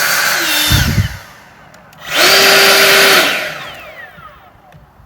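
EGO LB4800 cordless leaf blower with an aftermarket BLDC motor controller, blasting on turbo in two short bursts. Each burst is a steady whine and air rush that comes up fast with no soft start, holds for about a second, then winds down. The first burst fades about a second in and the second runs from about two seconds in.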